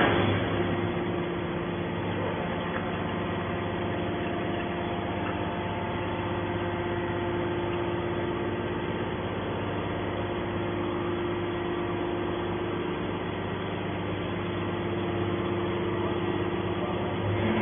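Automatic hydraulic scrap-metal baler running with a steady machine hum.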